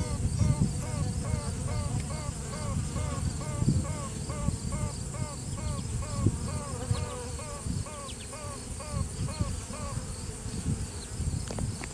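Virgin honey bee queen piping inside the hive, a trumpet-like tooting: a held note, then a long run of short toots about three a second that stop about ten seconds in. The colony's steady hum runs under it. A virgin queen pipes like this to assert dominance, with other virgin queens possibly answering.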